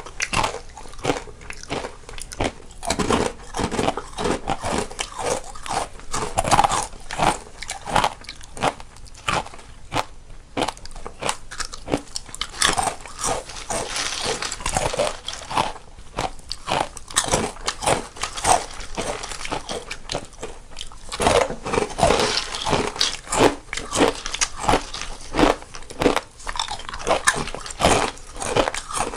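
Two people biting and chewing crunchy snacks close to the microphone, one on each side of the stereo field, in a dense, irregular run of crunches.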